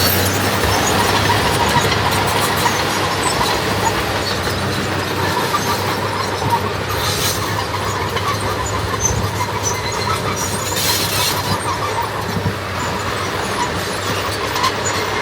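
Heavy diesel earthmoving machinery running steadily, with some metallic squealing and two short hissing flares about 7 and 11 seconds in.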